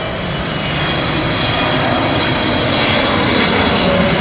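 Airliner on its landing approach passing low overhead: a loud, steady engine roar with a high whine running through it.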